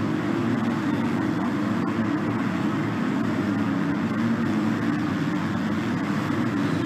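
MX2 motocross bikes running on the track, their engines making a steady, dense drone.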